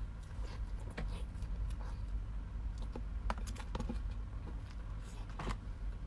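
Scattered light clicks and taps at an irregular pace, a few of them sharper, over a low steady hum.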